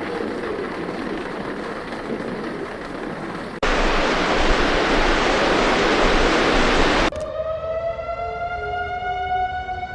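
Steady rushing noise that cuts abruptly louder about three and a half seconds in. About seven seconds in it gives way to a warning siren, a single tone with overtones that slowly rises in pitch as it winds up.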